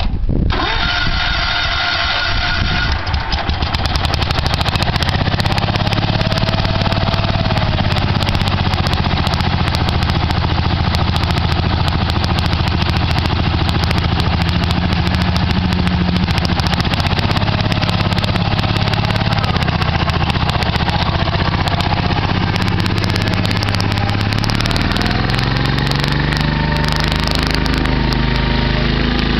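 10 hp Wheel Horse garden tractor engine starting up and then running steadily, with a high whine over the first few seconds; its engine note changes pitch about 25 seconds in.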